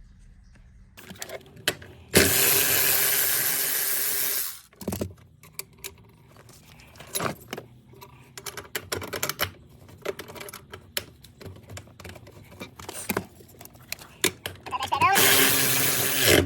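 Cordless battery ratchet running in two bursts, a longer one about two seconds in and a shorter one near the end, presumably spinning out seat bolts, with metallic clinks of tools and hardware between.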